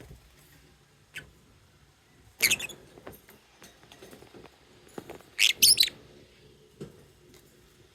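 Lovebirds giving short, shrill chirps in two loud bursts, about two and a half seconds in and again about five and a half seconds in, with faint clicks between.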